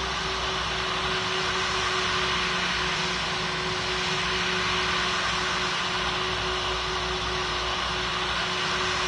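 Steady cabin noise of a Boeing 777 in flight: jet engines and rushing air, with a single steady engine hum running through it.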